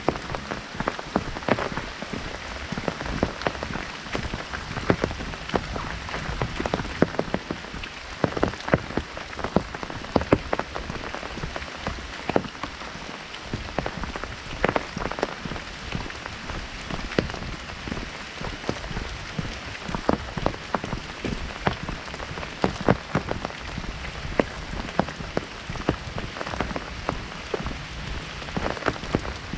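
Heavy rain drumming on an umbrella canopy overhead, a dense, irregular patter of drops with louder individual hits scattered throughout.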